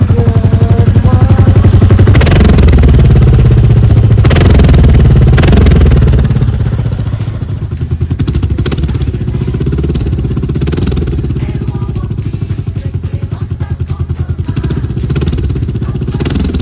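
Kawasaki VN 1500 Mean Streak's V-twin engine through a Falcon exhaust fitted with a double dB killer, revved up and down for the first six seconds or so, then dropping back to a steady, pulsing idle.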